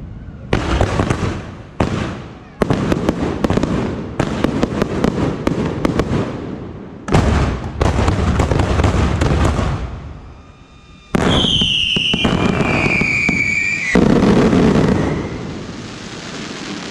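Fireworks show: volley after volley of shells bursting, each burst thick with crackling. After a short lull about ten seconds in, a whistling firework screams with a falling pitch for about three seconds, then a loud final burst fades away.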